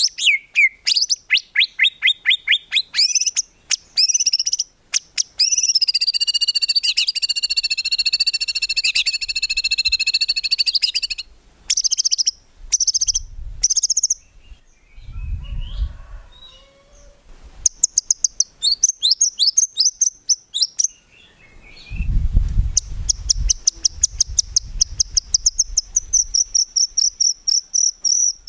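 White-rumped shama (murai batu) singing a long, varied song: fast strings of sweeping whistled notes, a sustained multi-tone trill near the middle, and a rapid-fire run of repeated high notes near the end. Two brief spells of low thuds sound in the second half.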